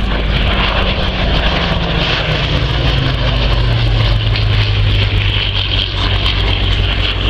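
Piston-engined propeller aircraft droning overhead, its engine pitch falling slowly as it passes.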